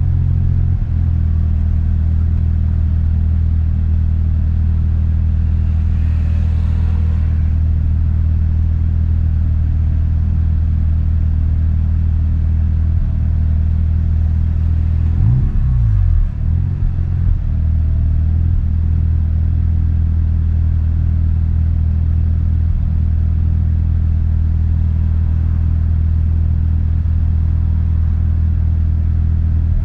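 Mazda RX-7 FD's twin-rotor rotary engine idling steadily at a standstill, heard from inside the cabin, with a low, even hum. About halfway through, the engine note briefly wavers in pitch, then settles back to idle.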